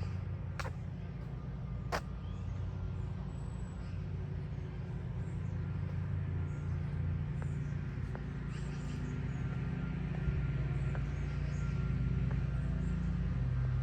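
Low, steady engine hum of a running vehicle, its pitch shifting somewhat higher in the last few seconds, with two sharp clicks near the start.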